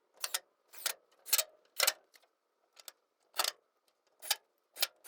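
Power drill driving screws to fix door hinges to the window frame, run in about eight short trigger bursts with brief pauses between.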